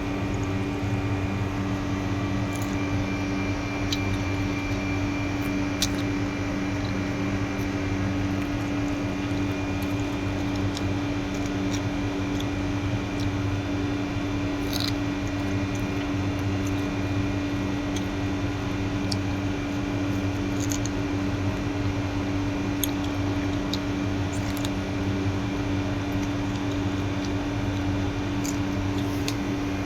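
A steady mechanical hum holding a few fixed low tones, with scattered faint clicks over it.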